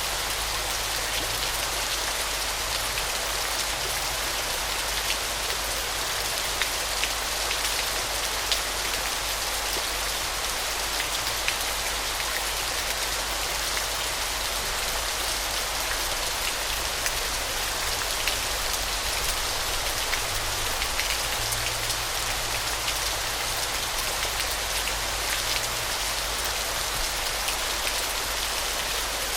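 Waterfall: a steady rush of falling water with fine, crackling splashes scattered through it, unchanging throughout.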